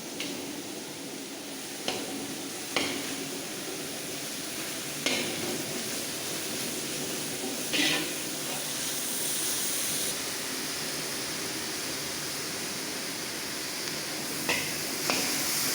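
A large batch of sliced onions frying in coconut oil, with a steady sizzle. A metal ladle scrapes and knocks against the pan a handful of times as the onions are stirred.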